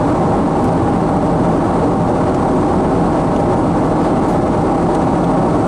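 Steady engine and airflow noise heard inside the cabin of a Boeing 777-200 in its climb after takeoff.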